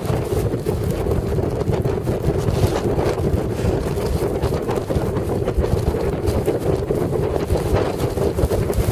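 Strong blizzard wind buffeting the microphone: a steady, loud rumble with constant gusty flutter.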